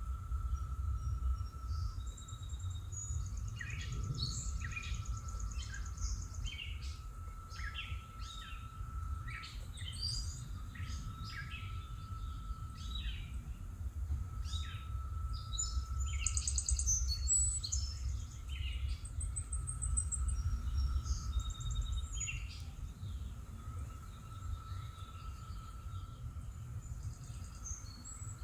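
Songbirds chirping and trilling in many short, quick calls over a steady low outdoor rumble. A faint held hum comes and goes every few seconds.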